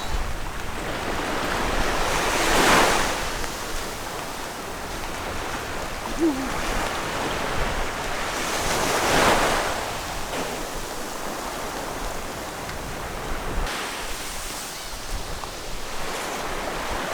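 Sea surf breaking on the shore, two waves swelling up and washing out about six seconds apart, over wind buffeting the microphone.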